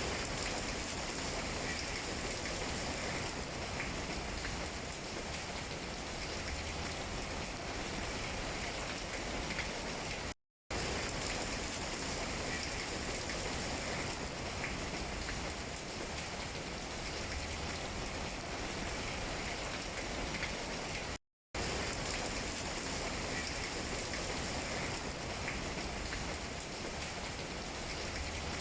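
Steady rain falling on tree leaves, an even patter of drops. The sound cuts out to silence for a split second twice, about a third and about two-thirds of the way through.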